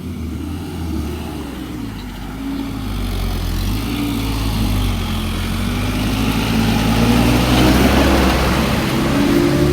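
Truck engine running steadily under load, its pitch wavering and then rising slowly near the end.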